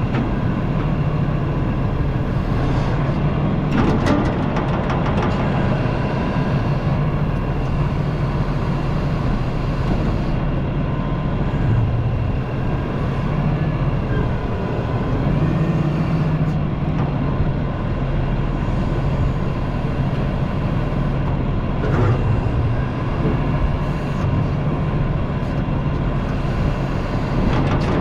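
Heavy equipment diesel engine running steadily under work, with a couple of sharp knocks, about four seconds in and again near the end.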